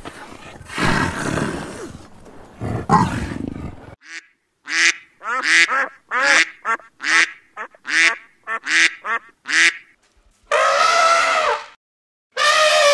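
A rough, noisy rumble from a cheetah for the first few seconds. Then a run of short honking calls from greylag geese, about one every half second. Near the end come two long, loud trumpeting calls from an elephant.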